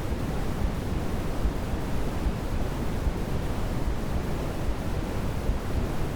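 Steady white noise played as a baby sleep sound: a constant, even rush, deeper at the bottom than it is hissy at the top, with no change.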